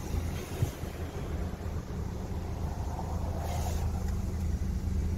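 A car engine idling: a steady low hum, with a brief soft swish about three and a half seconds in.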